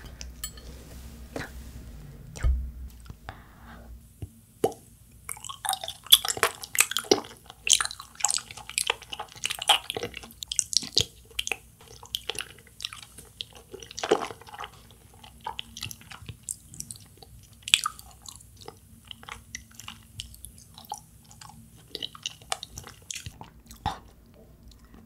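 Chewing and mouth sounds of a soft grape-shaped Kyoho agar jelly, many short irregular clicky, squishy sounds. The sounds are sparse at first and come thick from about four seconds in.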